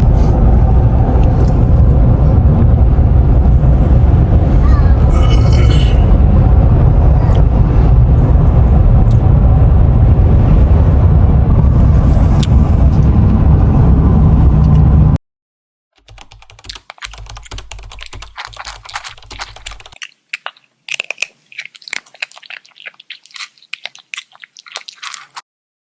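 Vehicle driving: a loud, steady low road rumble. About fifteen seconds in it cuts off suddenly, and quieter scattered crackling and clicking follows.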